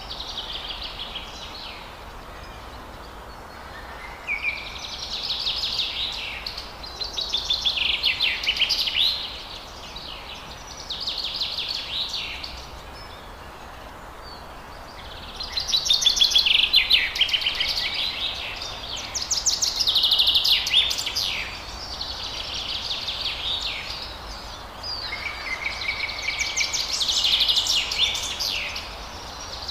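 Forest songbirds singing: long phrases of rapid, trilled chattering notes, each lasting a few seconds, with brief pauses between them, over a steady background hiss.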